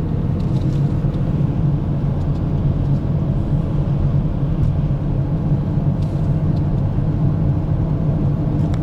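Car driving at steady speed with a loud, constant hum from its Nokian tyres, which sing on the road despite tread blocks of different sizes.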